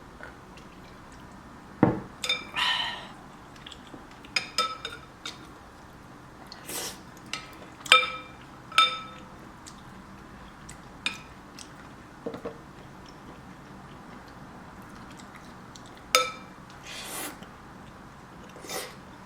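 Utensils clinking against a soup bowl: about a dozen sharp clinks spread out, some ringing briefly, with a few slurps of soup in between.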